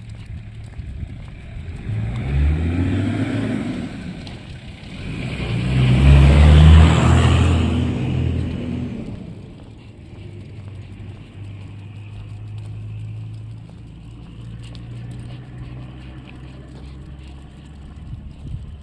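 Cars driving past: one goes by about two seconds in, and a louder one passes around six to seven seconds in with a rush of tyre noise. A steady low engine hum follows.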